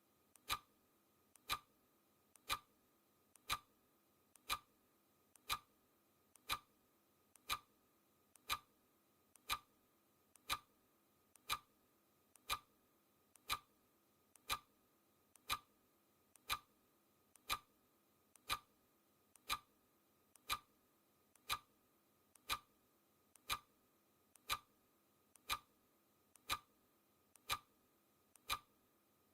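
Clock ticking at a steady tick-tock: a louder tick once a second, with a fainter click between each pair.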